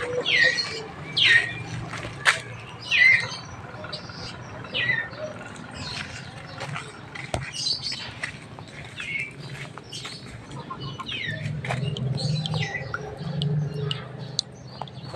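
Birds chirping, short high calls that fall in pitch and come irregularly about every second or two, with scattered light clicks and a low steady hum underneath that grows louder near the end.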